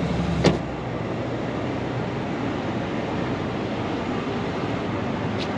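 Steady road and engine noise in a moving car, heard from inside, with a single sharp click about half a second in.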